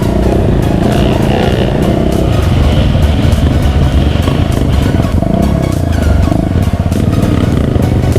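Off-road vehicle engine running on a trail, with many short clicks and knocks over it and a brief change in engine pitch past the middle.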